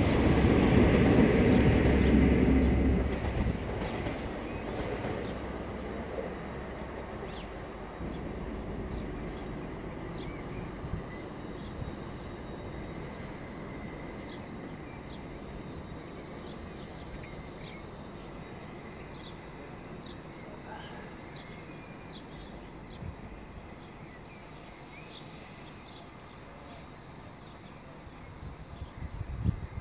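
Train running past, loudest in the first three seconds, then its rumble fading slowly as it draws away.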